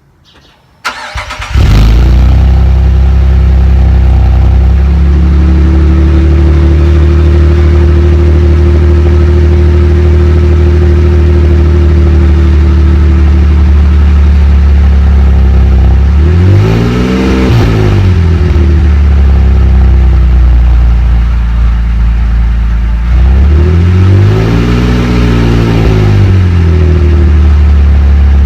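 Cadillac CTS engine starting through a new Magnaflow cat-back exhaust. It cranks briefly, catches and settles into a steady idle, then is revved twice, each rev rising and falling back to idle over about two seconds, once past the middle and once near the end.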